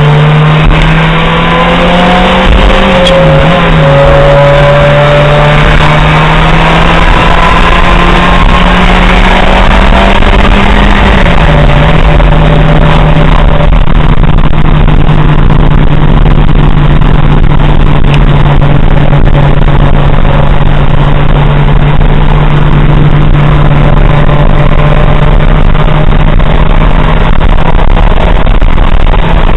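Ferrari F355's 3.5-litre V8, heard loud from inside the cabin while driving, over road and wind noise. The engine note climbs, then drops sharply with a gear change about three seconds in and again about eleven seconds in, then holds steady.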